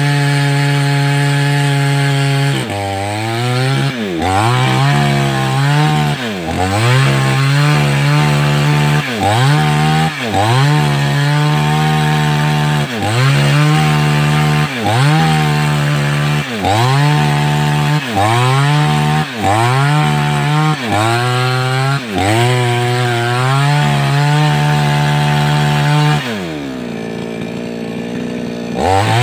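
Two-stroke 588X chainsaw running at high revs and cutting wood, its engine note dipping sharply and climbing back again over and over, about every second and a half. Near the end it drops to a low idle for a few seconds, then revs up again.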